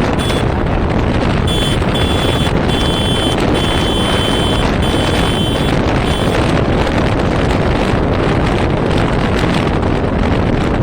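Wind rushing over the microphone with steady vehicle noise underneath, as on a moving scooter. A thin high whine sounds in several short stretches during the first six seconds, then stops.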